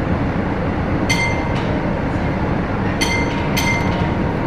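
Steady loud rumbling machine noise, with three electronic beeps of about half a second each: one about a second in and two close together near the end.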